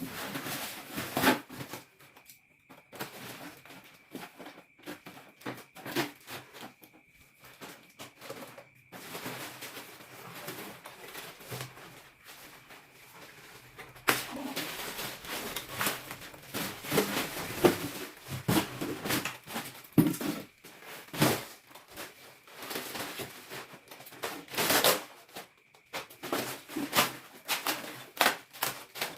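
Packaging being opened by hand: irregular rustling and tearing of wrapping, with scattered clicks and knocks, busier and louder from about halfway through.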